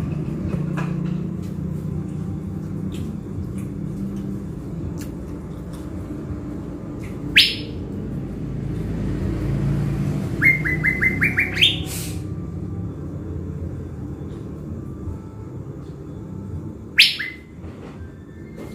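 Caged thanh lam songbird, a decoy bird kept for luring wild birds, calling in sharp whistled notes. One call comes about seven seconds in, a quick run of six rising chirps around ten to twelve seconds, and another call near the end, all over a steady low rumble.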